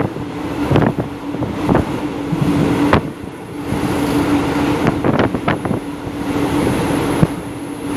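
Passenger train coach running at speed, heard from inside the carriage by an open window: a steady rumble and rattle with a steady hum underneath and irregular sharp clacks every second or two.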